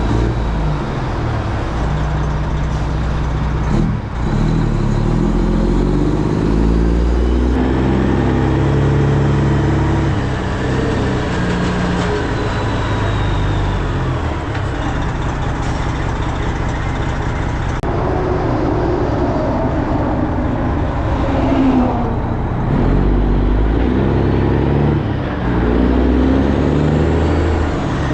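Semi-truck diesel engine running under way, its pitch and level shifting in steps as it pulls, with a few abrupt jumps where the footage is cut.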